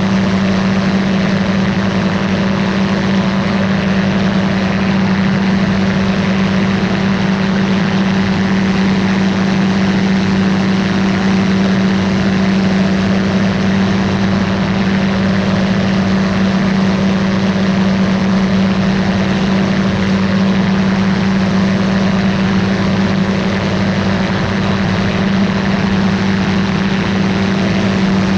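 Ultralight aircraft's engine and propeller running steadily at constant power in flight: a loud, even drone with a strong steady hum and no change in pitch.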